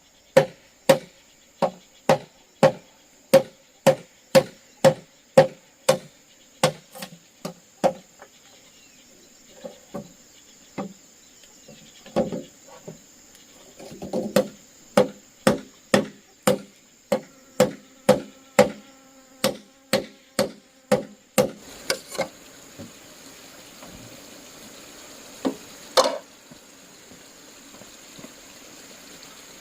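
Repeated blows on wood, about two a second, in two long runs with a pause between and one last single blow near the end, as wood is cut or driven for a trap cage. A steady high insect drone of cicadas or crickets runs underneath.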